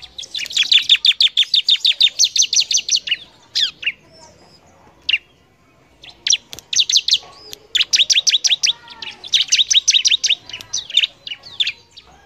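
Bar-winged prinia (ciblek) singing energetically: rapid trills of sharp, high, down-slurred notes, many a second, in repeated bursts, with a pause of about a second and a half near the middle.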